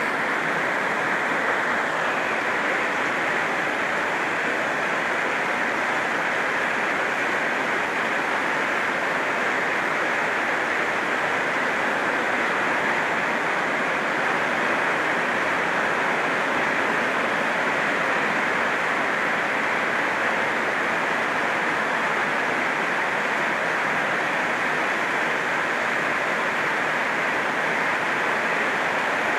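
Heavy rain drumming steadily on a tin roof, an even, dense patter that holds at one level throughout.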